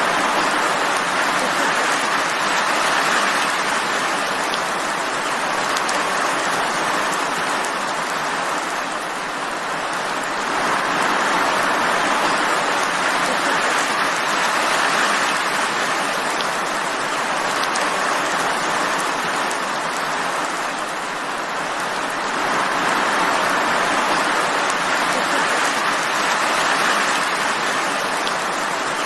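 Steady rain falling, an even hiss of many drops that eases slightly twice and builds back up.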